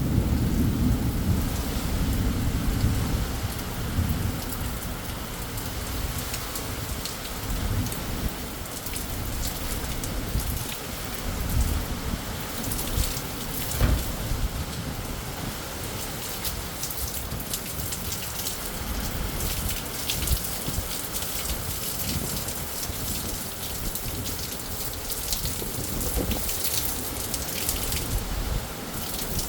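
Thunder rolling in a thunderstorm over steady rain. The rumble is loudest in the first few seconds, then dies away. A sharp knock comes about halfway through, and close raindrops crackle through the second half before another low rumble near the end.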